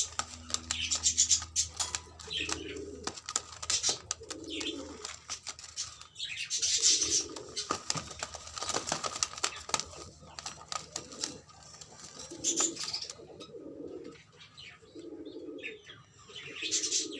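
Karbalai pigeons cooing: a low coo repeated every second or two, over bursts of high rustling or squeaky sound.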